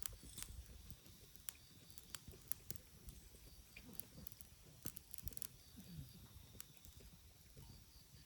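Faint campfire crackling: scattered, irregular sharp pops and snaps from burning wood.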